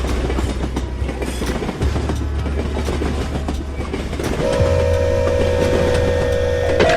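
A train running, with a steady low rumble and the clatter of wheels on the track. About four and a half seconds in, a steady train horn starts to blow.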